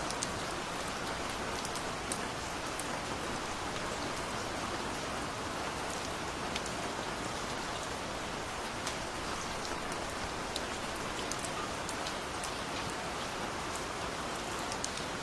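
Steady rain falling, a continuous even hiss with many separate drops pattering and clicking on a surface.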